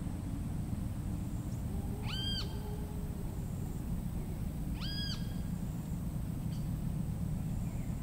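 A tropical forest bird gives two identical short whistled notes about three seconds apart, each rising quickly, held briefly and dropping away, over a steady low rumble of forest ambience.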